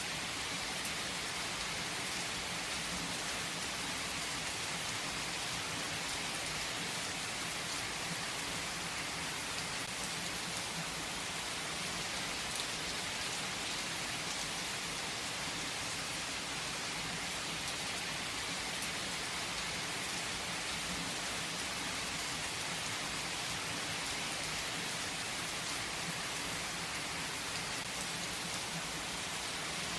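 Heavy rain falling on a tree: a steady, even hiss with faint scattered drop ticks.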